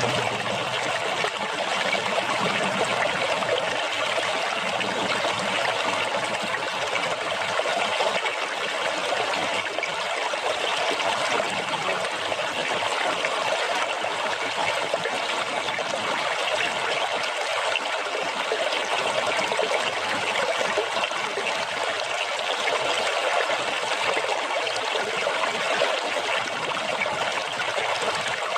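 Water splashing and trickling in a steady, unbroken stream.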